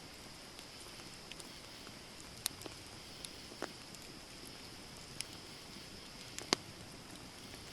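Wood campfire burning: scattered sharp crackles and pops over a steady high hiss, the loudest pop about six and a half seconds in.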